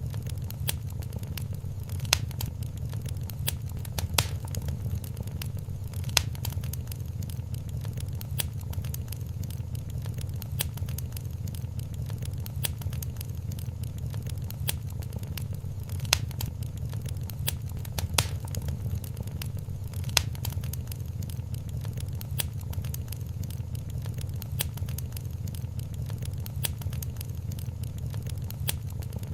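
Wood fire crackling in a fireplace: a steady low rumble of burning with constant small snaps and a handful of louder, sharp pops.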